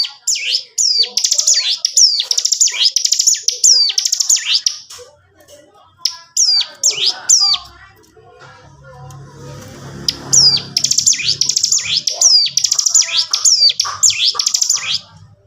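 Ciblek gunung, a prinia, singing in fast, dense bursts of sharp, high, down-slurred notes, pausing briefly about midway and again for about two seconds before resuming.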